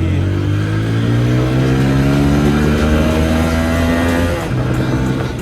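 TVS Apache RTR 160 4V's single-cylinder engine accelerating, its pitch climbing steadily for about four seconds, then dropping at a gear change near the end before pulling on.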